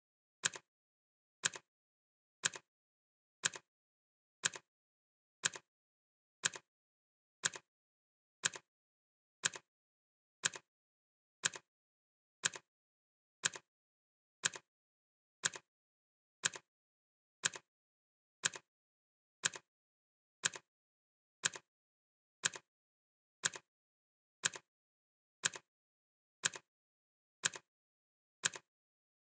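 Clock ticking sound effect: sharp ticks, one per second, steady and evenly spaced, with silence in between. Each tick has a softer second click close behind it.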